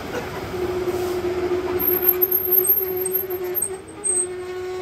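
Passenger train coaches rolling past on the adjacent track. A steady mid-pitched squealing tone runs through, dipping briefly near the end, with short high squeaks in the second half.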